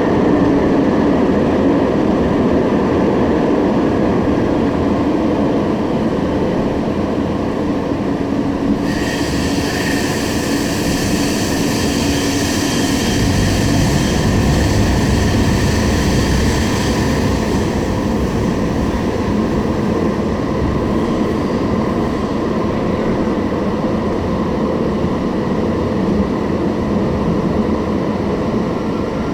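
Alstom Citadis Spirit light-rail train running at speed, heard from inside the car as a steady rumble. About a third of the way in, a high-pitched wheel squeal joins for roughly eight seconds, then fades.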